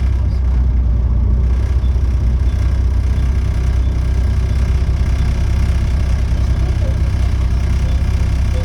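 Volvo B7TL bus's D7C six-cylinder diesel engine running steadily with a deep, even drone, heard from inside the bus. The exhaust is blown.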